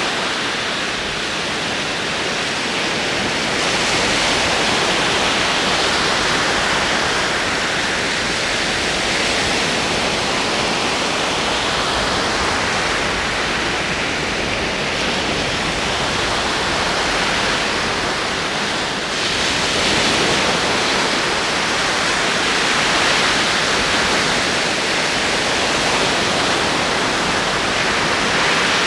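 Ocean waves rolling in: a steady rushing hiss of surf that swells and eases slowly every several seconds.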